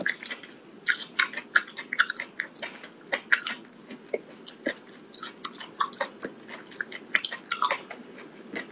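A person chewing a mouthful of cooked octopus tentacle with the mouth closed: irregular sharp chewing clicks, several a second, over a faint steady hum.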